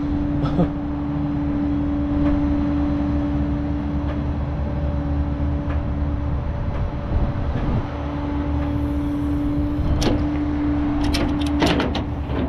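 Truck engine and road noise heard from inside the cab while driving: a steady low drone with a constant hum. A few sharp clicks or rattles come near the end.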